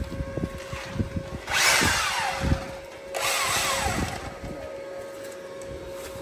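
Handheld electric power tool run in two short bursts of about a second each, its pitch falling as it winds down after each burst. A steady hum runs underneath.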